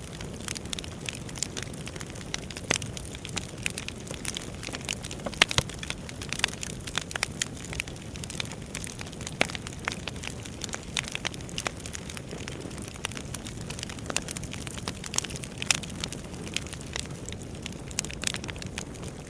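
Wood fire crackling: a steady low rush of burning logs with frequent, irregular sharp pops and snaps.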